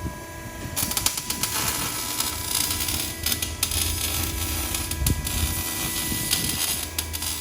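Shop tool working on a car's exhaust piping during a mid-muffler delete: a harsh, irregular noise full of sharp crackles and hiss starts about a second in and keeps going.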